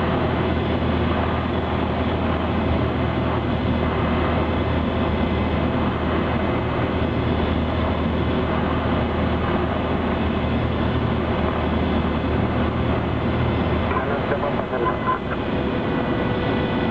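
Cessna 172's engine and propeller running with a steady, loud drone. Its low hum weakens about 14 seconds in.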